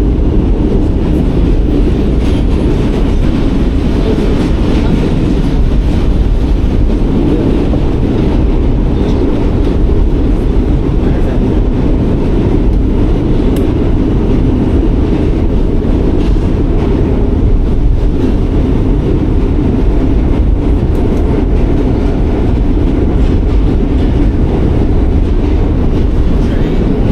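New York City Subway train running on its track, a loud, steady, low rumble.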